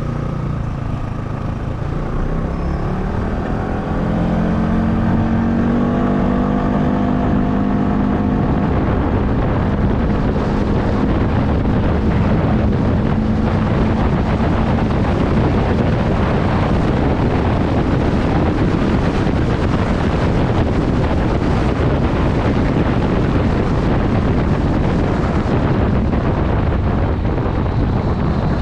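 Motorcycle pulling away, its engine note rising over the first several seconds. It then rides on steadily at speed, with heavy wind noise buffeting the GoPro 9's microphone.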